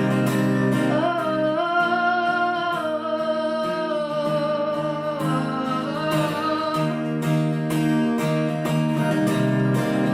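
Acoustic guitar strummed steadily under a woman singing a long, wavering melodic line, from about a second in until about seven seconds in; then the guitar carries on alone.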